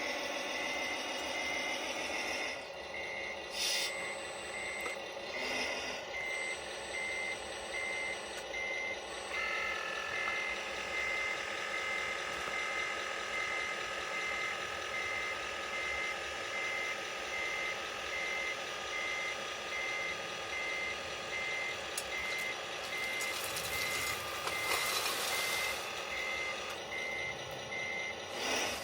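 Reversing beeper on a Tamiya Globe Liner model truck beeping steadily, about one and a half beeps a second, over a running engine sound whose pitch shifts twice. A burst of hiss comes about 24 seconds in.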